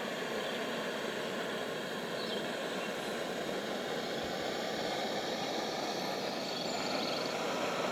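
Steady rushing outdoor ambience with a couple of faint, brief bird chirps.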